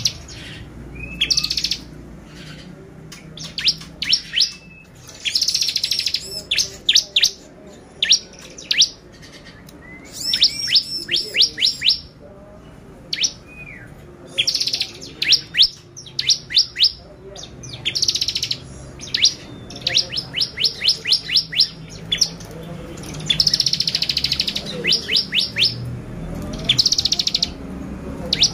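Bar-winged prinia (ciblek) singing: bursts of sharp, high chirps given in fast runs of several notes, broken by short buzzy rattles, repeated every second or two.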